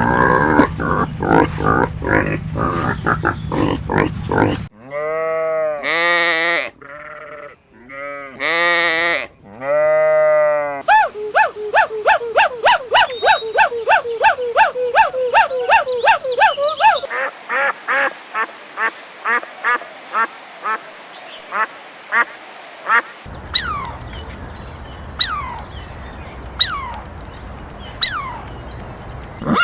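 Farm animal calls one after another: fast grunting at first, then a handful of drawn-out bleats, then a quick steady run of quacks at about three a second, and high falling chirps near the end.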